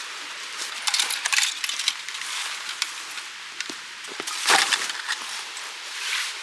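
Light knocks and clatter of hard objects being handled: a quick cluster of clicks about a second in and a louder knock about four and a half seconds in.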